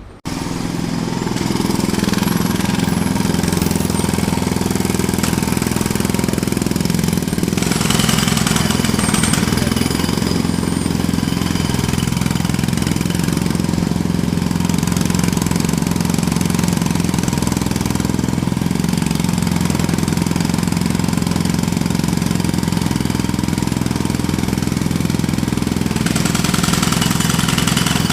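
Jackhammer hammering steadily at a fast, even rate. It starts up right at the beginning and runs on without a pause.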